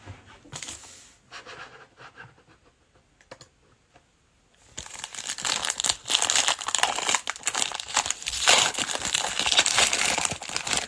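Plastic trading-card pack wrapper being crinkled and torn open. A few light rustles come first, then about five seconds in a loud, continuous crinkling and tearing that lasts about six seconds.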